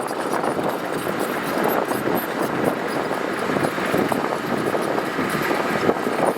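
Heavy earthmoving machinery at work on gravel: a steady mechanical din with a dense clatter of small knocks and crunches.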